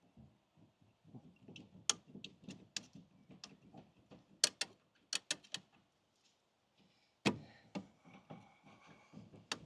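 Irregular sharp metallic clicks and clinks of hand tools working on a brake caliper and its carrier. A louder knock comes about seven seconds in, followed by a couple more knocks and rattling.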